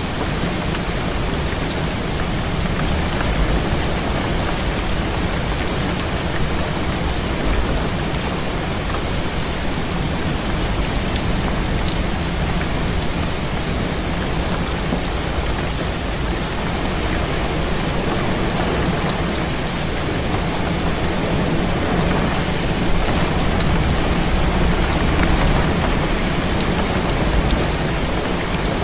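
Heavy rain falling steadily, with a constant low rumble underneath that swells a little in the last few seconds.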